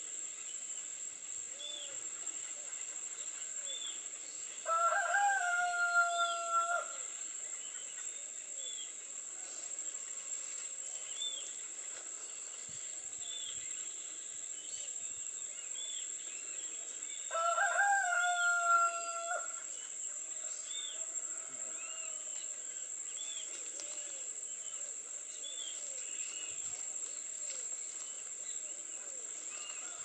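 A loud bird call sounds twice, about two seconds each: a few quick short notes run into one long held note that falls slightly at the end. Underneath is a steady high insect buzz with faint short chirps repeating throughout.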